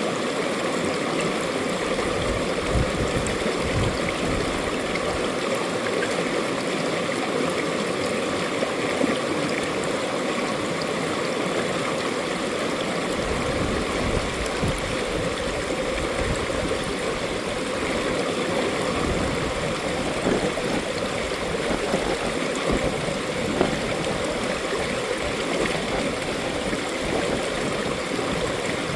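Mountain valley stream: water running and gurgling over rocks, a steady rushing flow.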